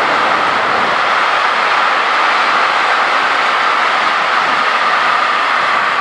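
Freight train of tank wagons rolling past at speed: a steady, loud rush of steel wheels on the rails.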